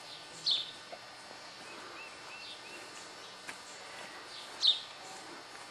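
Songbirds chirping over a quiet outdoor background: two loud, short, downward-sliding chirps about four seconds apart, with softer chirps in between and a faint click near the middle.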